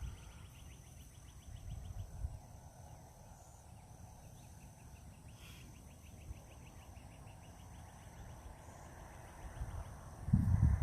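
An insect trilling in a rapid, even train of high pulses, in two runs with a short break between, over quiet outdoor ambience. Near the end, wind starts rumbling on the microphone.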